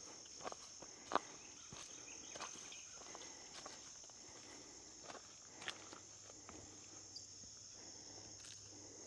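A steady high-pitched insect chorus, with scattered footsteps and small crackles on the forest trail.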